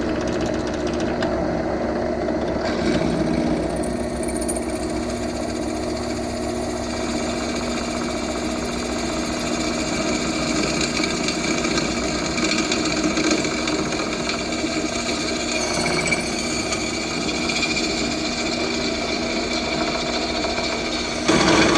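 Central Machinery 5-speed bench drill press starting up abruptly and running steadily while drilling through small forged steel pieces, with a chattering hum. It gets louder briefly near the end.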